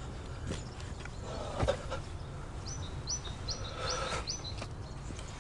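Small bird chirping: five short, high chirps in a quick, even series about three seconds in. A few soft knocks sound earlier, and a low steady rumble runs underneath.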